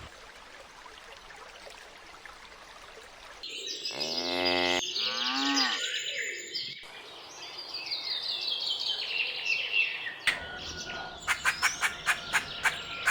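Animal calls one after another: a few seconds of faint background, then a pitched call that steps and arches in pitch, a run of quick high chirps falling in pitch, and a fast series of sharp clicks in the last few seconds.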